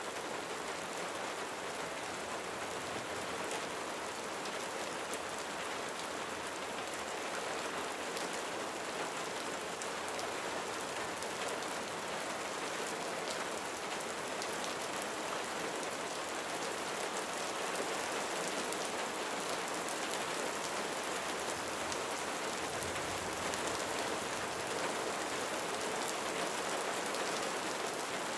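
Steady rain falling on a roof, an even hiss dotted with many small drop ticks.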